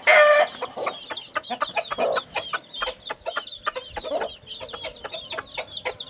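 Chicks peeping rapidly and continuously while pecking at boiled rice, with many short clicks of beaks. A loud call from an adult chicken opens the sound.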